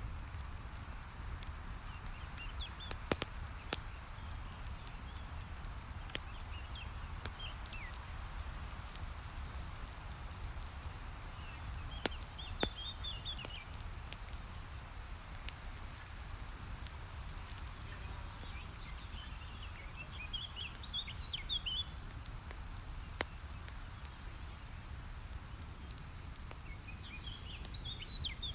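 Campfire crackling steadily over a low rumble, with a few sharp pops scattered through it. Bursts of bird chirping come every several seconds.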